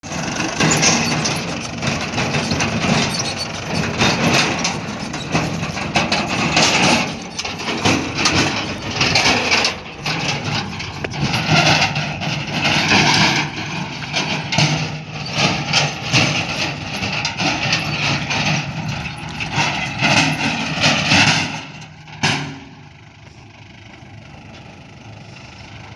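Diesel engine of a JCB backhoe loader working hard, with a steady low drone and repeated clanking and knocking. About 22 s in, the loud working noise cuts off suddenly, leaving a quieter steady engine hum.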